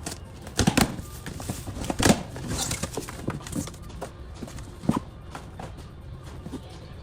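Scattered thuds and knocks with a brief rustle, from cardboard boxes and stock being handled and unpacked.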